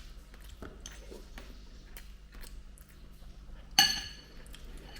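Tableware clinking: scattered faint taps, then one sharp ringing clink about four seconds in.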